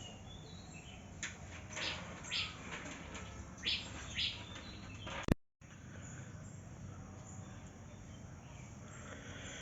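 Birds chirping faintly over steady background noise, with a handful of short calls in the first half. A sharp click and a brief dropout come about five seconds in.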